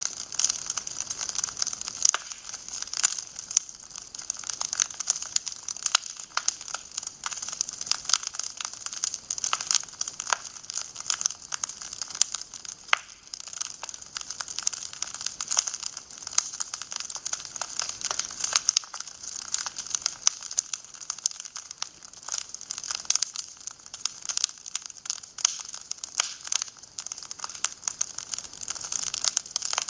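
Wood fire crackling in a fireplace: a dense, irregular stream of pops and snaps over a steady hiss.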